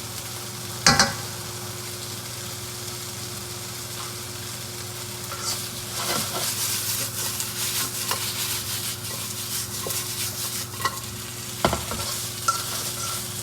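Chicken pieces and ginger sizzling in hot chicken fat in a wok, with a sharp knock about a second in and another near the end. From about midway the sizzle grows louder and crackly as the pieces are stirred.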